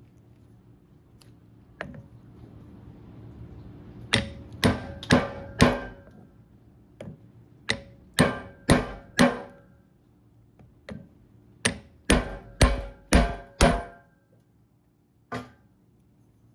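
Hammer blows on metal driving a seal into a hydraulic cylinder's end cap, each blow with a short metallic ring. The blows come in three runs of four or five at about two a second, with a few single taps between.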